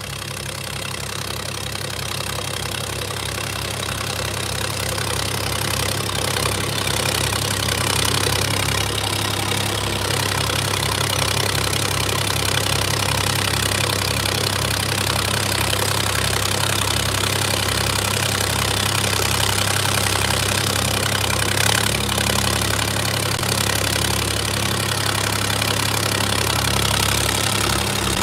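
Tractor's diesel engine running steadily, growing louder over the first several seconds and then holding at a constant pitch.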